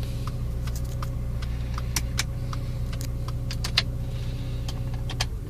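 Rover 414 1.4 16v four-cylinder engine idling steadily, with light irregular clicking over it; the engine is switched off and dies away at the very end.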